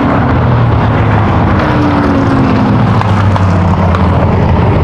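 V8 race engines of stock cars and trucks running on the oval, with one engine's pitch falling about a second and a half in as a car passes or lifts off.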